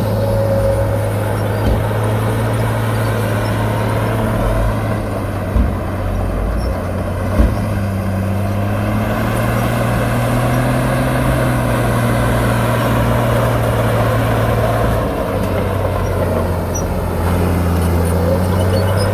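Diesel engine of heavy earthmoving machinery running steadily with a low drone, its pitch rising a little in the middle. A few short knocks come in the first half.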